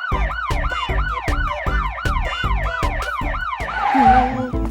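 Cartoon police-car siren sound effect: a fast yelp of falling tones, about four a second, over a music beat. Near the end it gives way to a short whoosh.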